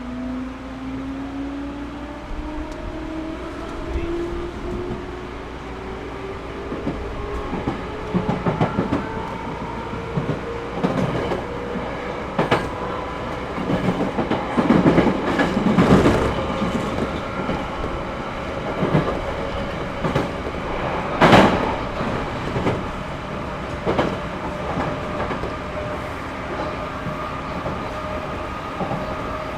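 Series 211-5000 electric train heard from inside the carriage: the traction motor and gear whine rises in pitch as the train picks up speed, then holds steady while the wheels clack over rail joints, loudest about halfway through.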